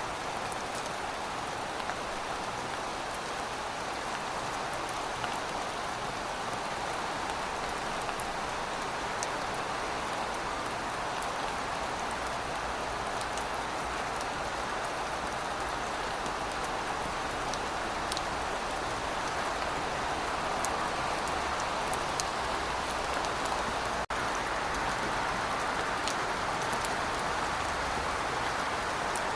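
Steady rain falling: an even hiss with scattered sharp drop ticks. It breaks off for a split second late on.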